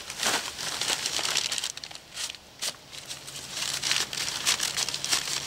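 Irregular crinkling and rubbing of a wipe as oil is cleaned off a small engine's governor part, in scratchy strokes with a short lull partway through.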